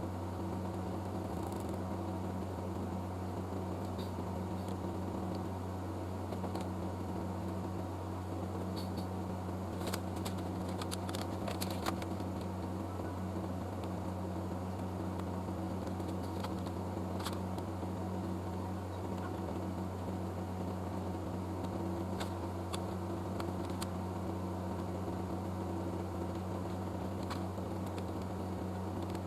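A steady low mechanical hum, as of a fan or small motor running, with a few light clicks and taps in a cluster about a third of the way in and one more a little past halfway.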